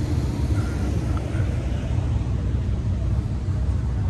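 A steady, low vehicle engine rumble.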